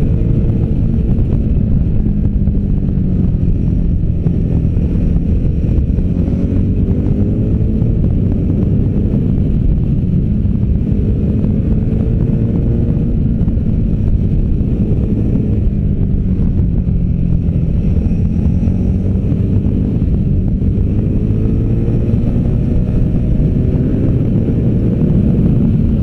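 V-twin adventure motorcycle engine under way at speed, its pitch rising and falling repeatedly as the rider accelerates and eases off, with wind noise on the microphone.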